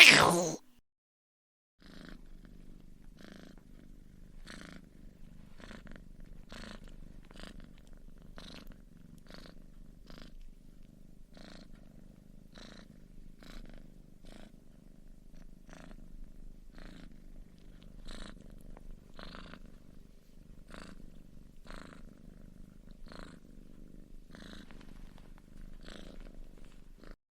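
Cat purring steadily and rhythmically, pulsing about one and a half times a second. A brief loud cry cuts off at the very start, just before the purring begins.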